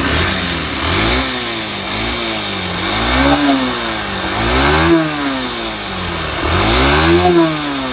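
Yamaha YBR 125's single-cylinder four-stroke engine revved up and down several times, the pitch rising and falling with each blip. It carries an engine noise that started after the engine was found running with the oil level almost off the dipstick, and it smokes.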